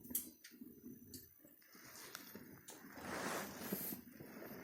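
Wood fire burning in a fireplace, faint, with scattered crackling pops and a soft hiss about three seconds in.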